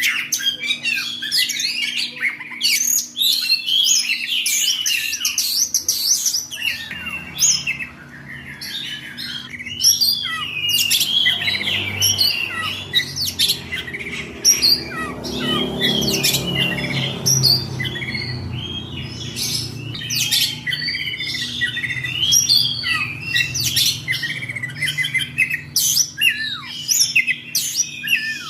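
Caged oriental magpie-robin (kacer) singing hard in its excited 'ngobra' state: a rapid, unbroken run of varied whistles, trills and harsh chips. A low rumble runs under the song through the middle.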